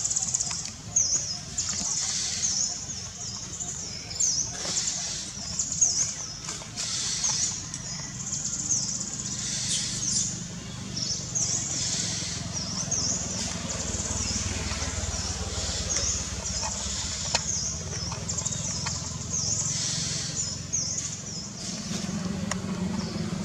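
Small birds chirping outdoors: short, high-pitched chirps repeat two or three times a second throughout, over a low steady rumble, with a few scattered clicks.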